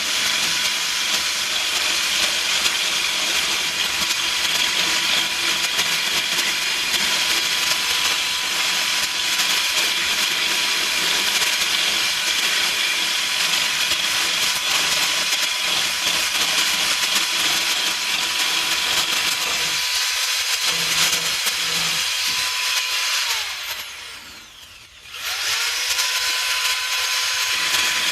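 Power sander running steadily on body filler with a high whine. About 23 seconds in it winds down and stops, then starts up again about two seconds later.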